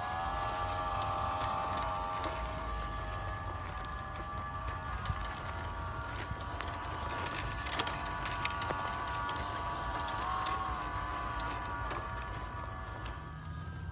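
Small RC crawler's 370 brushed electric motor and metal gearbox whining as it drives slowly, the pitch wavering a little with the throttle, with scattered small clicks and knocks.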